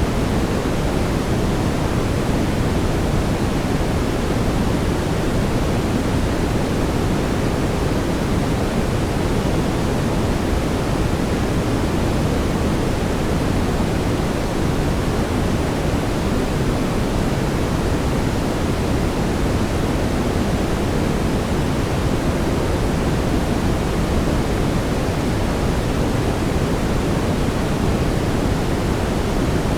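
Steady brown noise: an even, deep rushing hiss, strongest in the low end and falling off toward the highs, with no changes.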